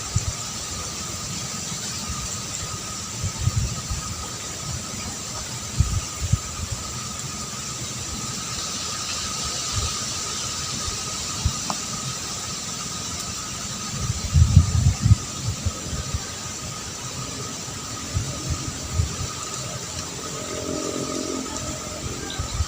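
A steady high-pitched drone of two held tones over a faint hiss, with irregular low thumps and rumbles throughout, the strongest cluster about 14 to 15 seconds in.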